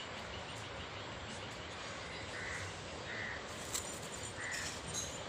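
Outdoor background noise with a bird giving three short calls about a second apart, and a single click near the middle.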